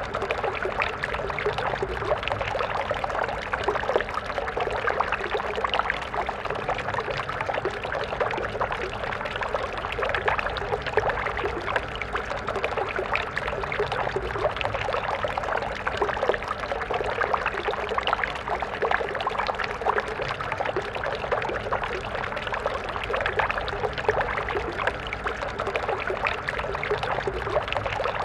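Stream water flowing steadily, a continuous babble and gurgle of small splashes.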